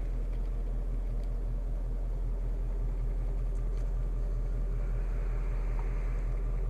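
Steady low rumble of the Mustang GT's 5.0-litre Coyote V8 idling, heard from inside the cabin.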